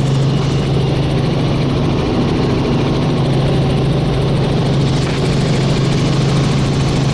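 Helicopter in flight, heard from inside the cabin: a steady, even drone of engine and rotors with a strong low hum running through it.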